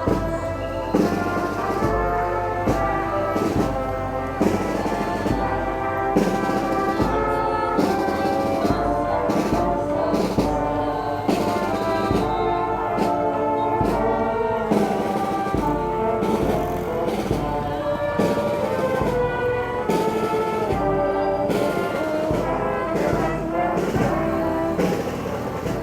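Brass band playing a tune, with trumpets and trombones carrying the melody over regular drum strikes.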